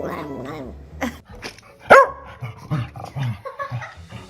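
A dog vocalizing. It starts with a wavering, howl-like whine and gives one loud bark about two seconds in, followed by a few shorter, quieter sounds.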